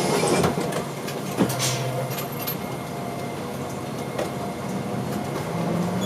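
Diesel route bus pulling away from a stop: the engine runs steadily under road and cabin noise, with a click and a short hiss about one and a half seconds in, and its note rises near the end as the bus speeds up.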